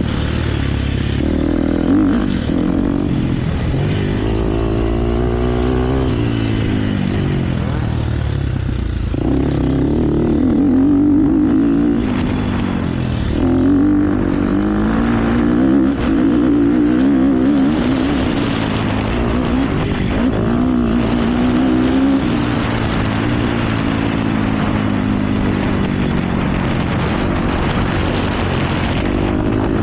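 KTM motocross bike engine being ridden hard, its pitch rising and falling repeatedly as the throttle is opened and shut through gear changes, with a steady rush of noise over it.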